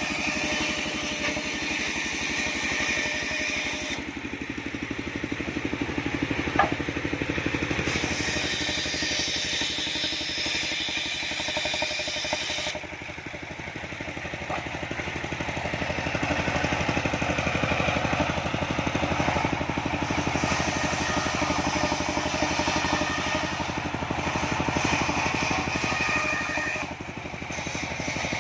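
Engine-driven homemade circular sawmill running steadily while sawing sengon wood. The higher, hissing part of the sound drops away twice for a few seconds and comes back, with one sharp click partway through.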